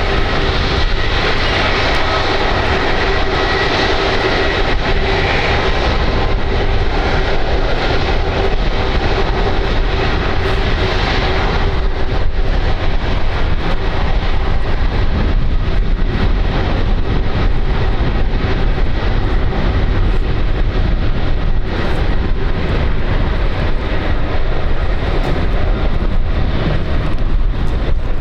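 Jet engines of an Airbus Beluga XL (A330-700L) running loud and steady, the Rolls-Royce Trent 700 turbofans giving a whine over a broad rumble; the whine fades about twelve seconds in and the rumble carries on.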